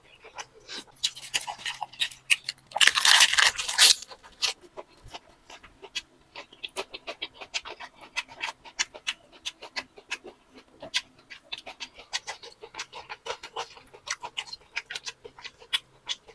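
A person eating close to the microphone: rapid, crunchy chewing clicks, with a louder noisy burst about three seconds in.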